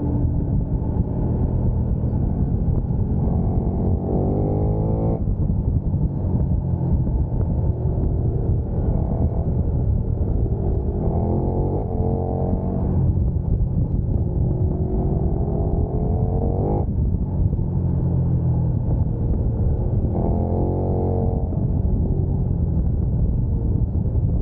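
Sport motorcycle engine accelerating hard, its pitch climbing and then dropping back at each upshift several times, over a steady low rumble.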